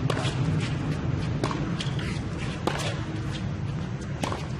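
Tennis rally: a few sharp ball-on-racket strikes about a second and a quarter apart, with fainter ball bounces between them, over a steady low background hum.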